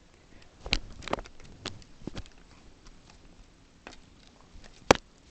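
Irregular light knocks and clicks, about six in all, spread unevenly over five seconds, the sharpest one near the end.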